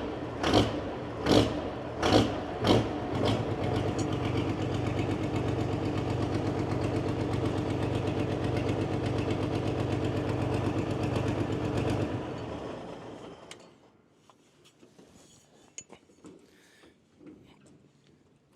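12-valve Cummins diesel of a pulling tractor running, with several short loud surges of throttle in the first few seconds, then running steadily. About twelve seconds in it is shut off and winds down to a stop.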